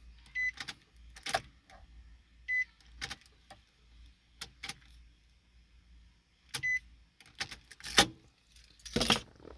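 Key clicking and jangling in the ignition of a 2007 Nissan Titan as it is turned with an aftermarket key. The immobilizer rejects the key, so the engine does not crank. A short high electronic beep sounds three times among the clicks.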